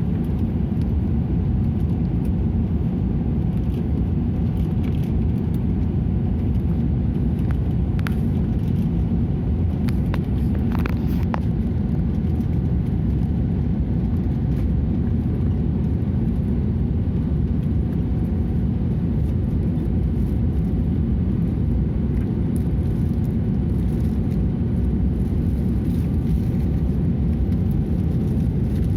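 Steady low rumble of a moving vehicle heard from inside its cabin, unchanging throughout, with a few faint ticks about eight and eleven seconds in.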